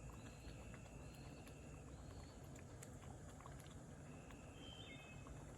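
Faint woodland ambience: a steady high insect whine with a few thin, held whistled calls over a low rumble.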